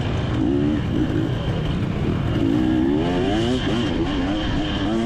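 Two-stroke motocross bike engine heard from on board, revving up and down repeatedly as the throttle is opened and rolled off, over a steady low rumble.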